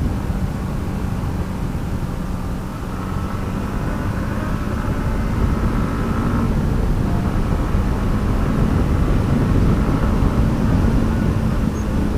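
Yamaha MT-15's single-cylinder 155 cc engine running steadily while riding on the road, with heavy low rumble. It gets a little louder a few seconds in and stays there.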